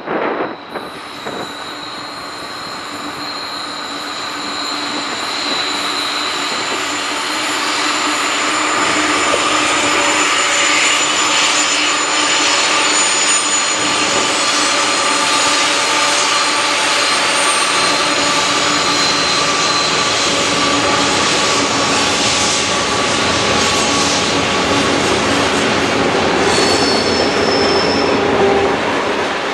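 Freight train cars rolling past on a curve, their steel wheels squealing against the rail: long, steady high-pitched squeals over the rumble of the cars. It grows louder over the first several seconds, then holds steady.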